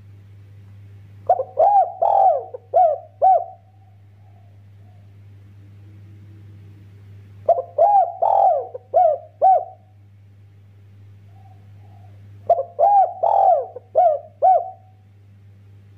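A derkuku dove cooing in its fast 'kuk' style call, three phrases about five seconds apart, each a quick run of about five arching coo notes lasting a couple of seconds.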